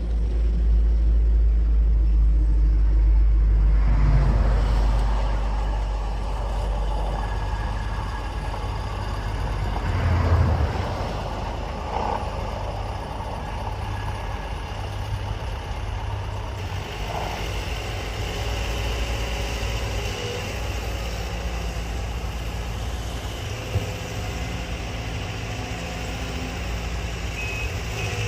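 Heavy machinery engine running, with a strong deep rumble for the first four seconds that then settles to a steadier, quieter run, with a few knocks and a short high beep near the end.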